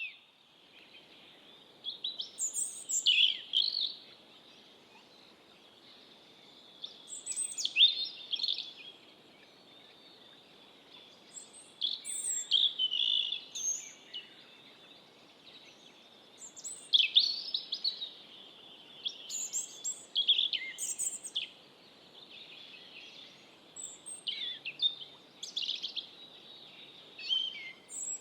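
European robin singing: short, high, warbled phrases of a second or two, repeated after pauses of a few seconds. A faint, steady high tone runs underneath.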